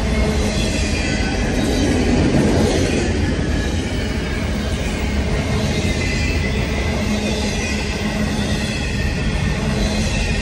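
Intermodal freight cars rolling past at speed, a steady rumble of steel wheels on rail with a faint high wheel squeal.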